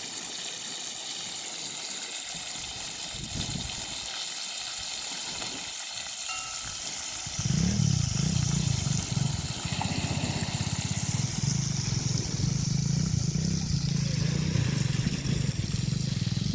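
Pieces of seasoned bird frying in hot oil in a pot, a steady sizzle. About seven seconds in, a loud low rumble starts and stays as the loudest sound.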